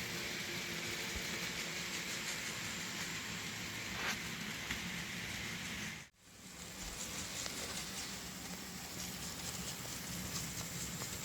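Two Kato N scale ES44AC locomotives running a train around the layout: a steady hissing rattle of small wheels on track and motors. The sound cuts out abruptly about six seconds in and fades back up over about a second.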